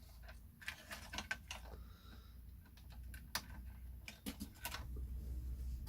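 Scattered light clicks and taps of hand tools and small plastic parts being handled, a few sharper clicks in the second half, over a low steady hum.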